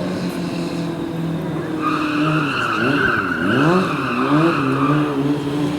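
Motorcycle drifting: the engine revs rise and fall while the rear tyre squeals for about three seconds from about two seconds in.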